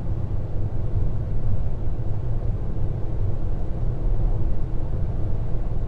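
Steady low rumble of engine and road noise inside the cabin of a 1.2-litre Opel Corsa driving on a motorway.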